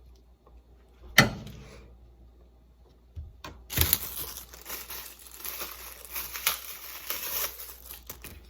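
A single sharp knock, then about four seconds of steady crinkling and tearing, like plastic or paper food packaging being torn open and handled.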